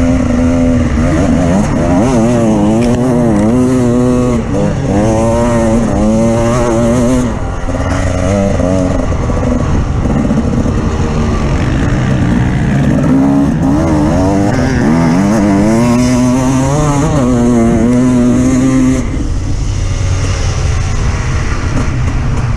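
Off-road vehicle engine running under load, its revs rising and falling over and over as it drives across rough ground, with a steady low rumble beneath. About 19 seconds in, the revs settle into a steadier drone.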